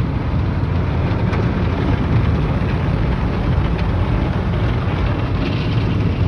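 Automated tunnel car wash working over the car, heard from inside the cabin: a steady, loud rumble with a hiss of water and brushes on the body, unbroken throughout.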